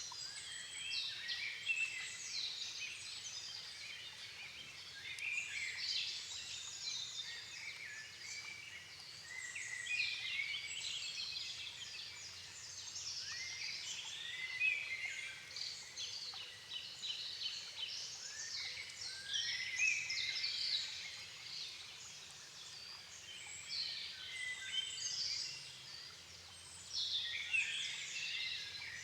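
Dusk chorus of many songbirds singing at once in a floodplain forest, dense overlapping chirps and trills throughout.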